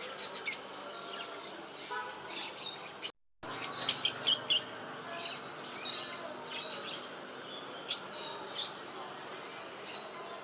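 Pet birds chirping in short, high calls, busiest at the start and again around four seconds in, sparser afterwards, with a brief gap of silence just after three seconds.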